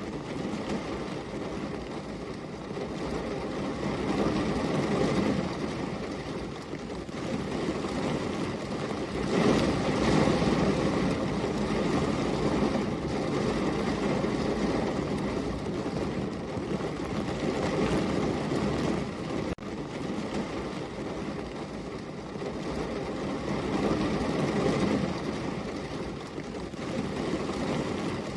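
Steady rainfall, a dense even hiss that swells louder and eases back every few seconds.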